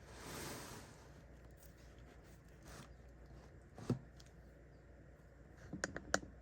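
Faint handling noises from items being moved on a tabletop: a soft rustle at the start, a single sharp tap about four seconds in, and a quick run of small clicks and taps near the end.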